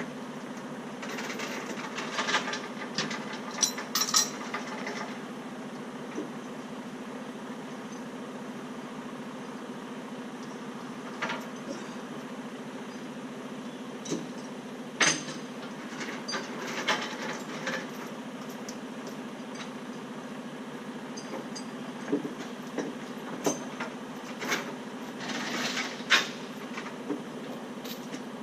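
Heavy diesel engine idling steadily, with scattered sharp metal clanks and rattles that come singly and in short clusters.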